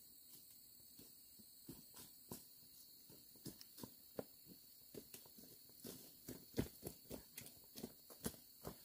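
Light irregular knocks, sparse at first and coming about two a second in the second half, over a faint steady hiss.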